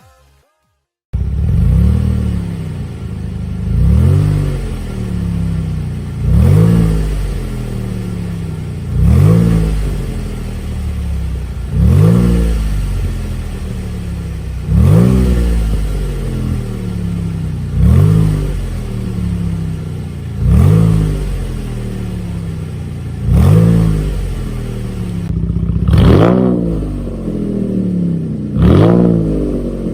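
Cadillac CTS 3.0's V6 breathing through a custom valved (variable) mid and rear exhaust. It idles and is blipped in about ten short free revs, one every two to three seconds, each rising and falling back to idle, starting about a second in.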